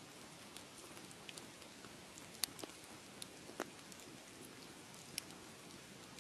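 Wood fire crackling: a soft steady hiss with scattered sharp pops, the loudest a little over two seconds in and again about a second later.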